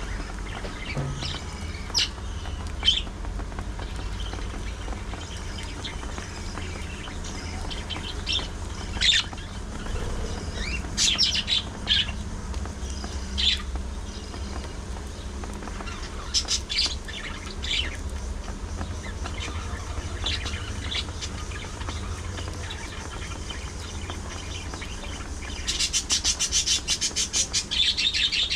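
Budgerigars chirping in short, scattered high calls, with a fast run of rapid chatter near the end.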